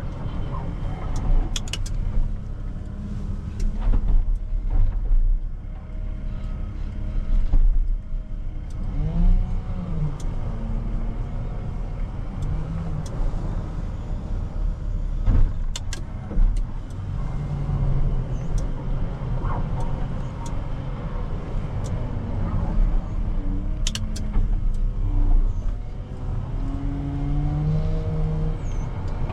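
Heavy diesel engine of a gravel loader working, its pitch rising and falling as it revs up and down, with a few sharp clanks and knocks.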